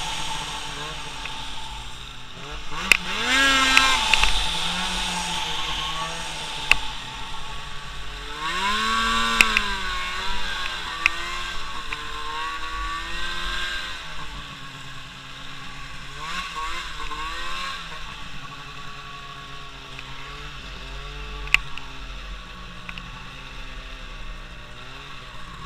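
A vehicle engine revving up and easing off several times, its pitch rising and falling, loudest a few seconds in and again around nine seconds, with a few sharp clicks.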